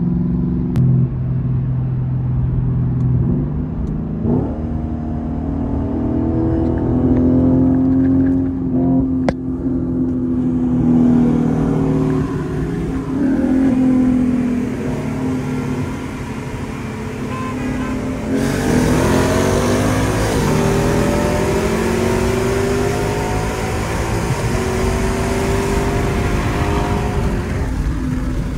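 Lexus IS F's 5.0-litre V8 with an aftermarket cat-back exhaust, driving and accelerating, its pitch climbing and falling several times through the gears. From about two-thirds of the way in, a loud hiss of wind and road noise runs under the engine.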